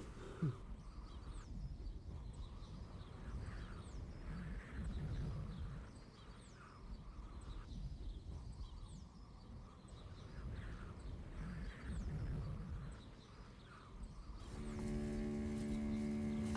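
Woodland ambience: small birds chirping over and over above a low wind-like rumble, with a brief thump about half a second in. Near the end a steady low hum of several even tones comes in.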